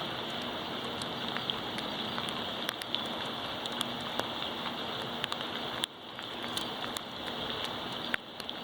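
Steady thunderstorm rain, with scattered sharp ticks of drops striking close by. The rain noise drops suddenly about six seconds in, then builds back up.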